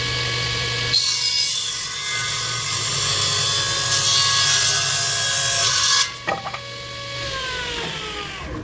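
Restored Powermatic 65 cabinet table saw running, cutting through a board from about a second in to about six seconds in. Then come a couple of clicks, and the motor and blade spin down with falling pitch.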